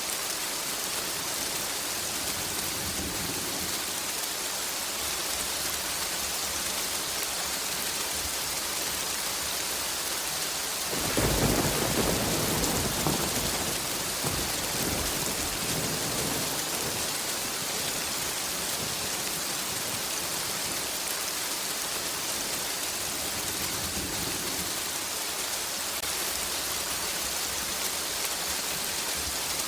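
Steady rain hissing, with one clap of thunder about a third of the way in that rumbles loudly and fades over several seconds.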